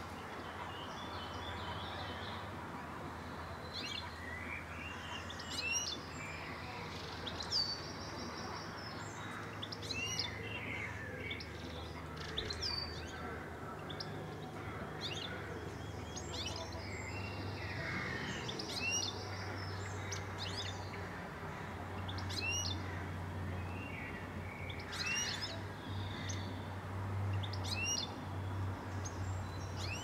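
Birds chirping and calling: many short, high notes every second or two, over a low steady hum.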